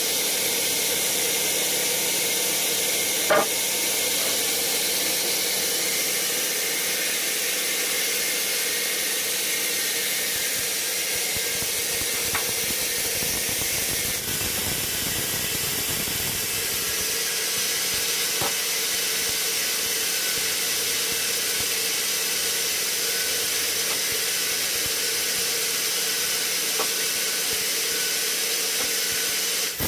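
Sawmill machinery running steadily: a continuous loud hiss over a steady hum, with a few sharp clicks or knocks, the loudest about three seconds in.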